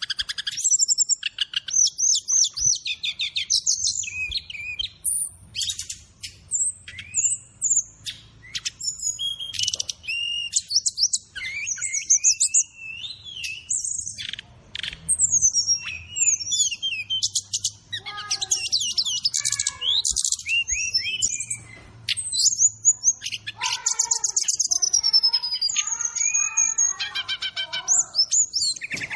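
Brown-chested jungle flycatcher (SRDC) song on a bird-training master recording with mixed-in fill-in phrases: rapid, varied high whistles, trills and chirps that run on without a break. Lower-pitched chattering phrases join in over the second half.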